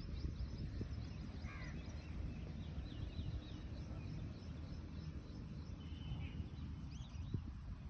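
Many small birds chirping together in a morning chorus: short, quick, overlapping chirps throughout, with one lower call about a second and a half in. A steady low rumble runs underneath.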